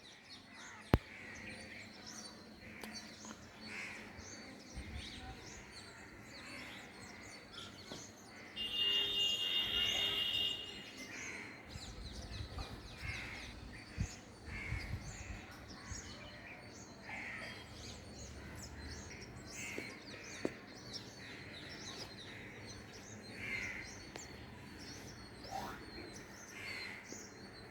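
Birds calling over and over outdoors, many short chirps and calls, with crow-like caws among them. About nine seconds in, a loud steady high-pitched tone sounds for about two seconds.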